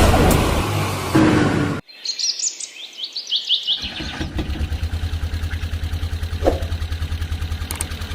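Engine noise stops abruptly about two seconds in, followed by a string of quick rising bird chirps. Then a vehicle engine starts chugging with a fast, even beat and keeps running.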